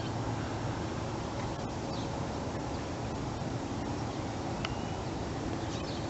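Steady outdoor background hiss with a low hum underneath, and a few faint short bird chirps, one about two seconds in and another near the end.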